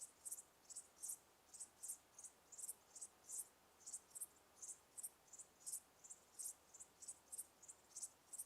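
Crickets chirping: faint, high, short chirps repeating steadily about three or four times a second.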